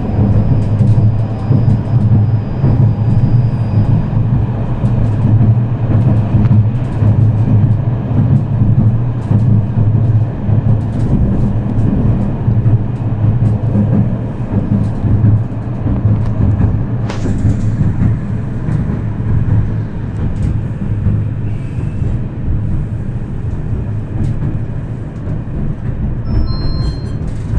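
Tram running along its line, heard from inside the passenger car: a steady low rumble of traction motors and wheels on the rails with a constant low hum, easing off a little in the last third.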